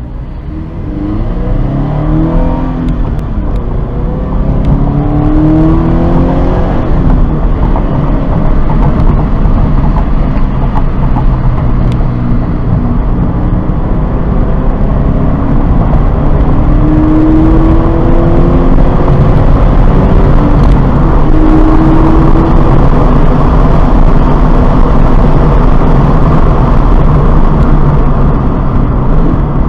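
2017 Subaru BRZ's 2.0-litre flat-four engine accelerating hard through the gears, heard from inside the cabin. The revs climb and drop back several times at the upshifts, over growing road and wind noise as the speed builds.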